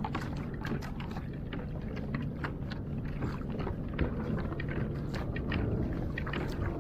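Water moving against a fishing kayak's hull with wind on the microphone, broken by many small irregular clicks and splashes.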